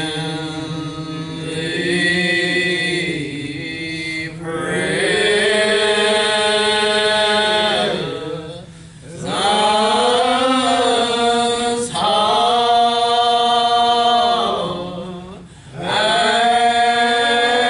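Singing of a church hymn, with long held notes in slow phrases. There are short breaks between phrases about four, nine and fifteen seconds in.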